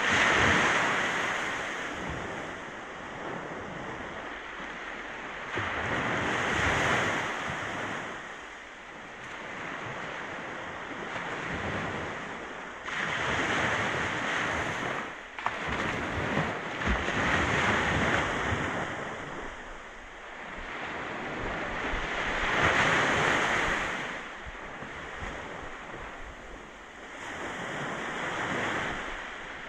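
Ocean waves breaking on a shore, each wash swelling and fading every few seconds, with some wind on the microphone.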